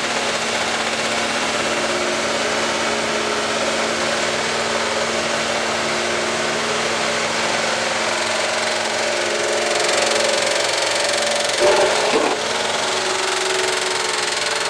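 GMC engine running steadily at a constant speed while it is run until it fails, with no obvious distress in its note. A brief louder sound breaks in about twelve seconds in.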